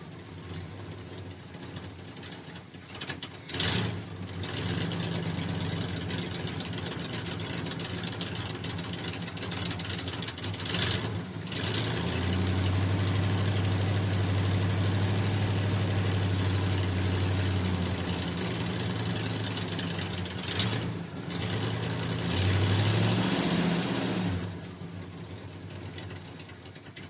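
1987 Ford F-150 pickup engine idling and being revved: quick blips, a longer stretch held at higher revs, another rev, then settling back to a quieter idle near the end.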